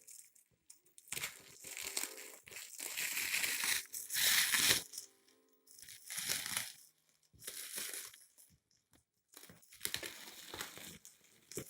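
Packaging being opened by hand: irregular bursts of crinkling, tearing and crumpling, about six of them with short pauses between, the loudest a little before halfway.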